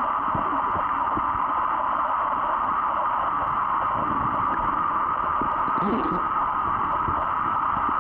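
A steady, even noise like a hiss, with faint low sounds in it and a brief short sweep about six seconds in.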